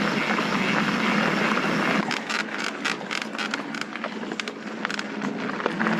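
Mountain bike rolling over a rough dirt trail: steady tyre and wind rush for about two seconds, then quieter, with rapid irregular clicking and rattling from the bike and the loose ground.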